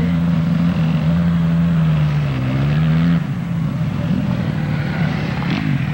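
Motocross motorcycle engines running at race speed. One bike's engine note is loud and steady for about three seconds, dipping briefly in pitch and rising again, then falls away halfway through, leaving fainter engine sound.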